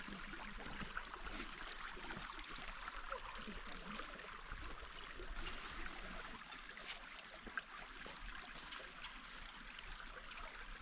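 Steady rush of flowing water from a creek and small waterfall, an even hiss with no breaks.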